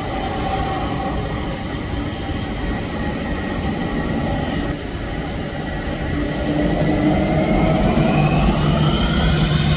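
Jet airliner engines whining with a rising pitch and growing louder over the last few seconds, above a steady rumble of traffic noise.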